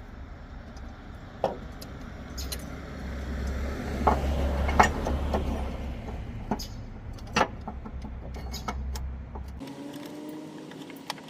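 Irregular metal clanks, clicks and knocks of engine-bay parts and tools being handled while the engine mount bracket is set back in place, busiest and loudest about four to five seconds in. A low steady hum underlies them and cuts off near the end.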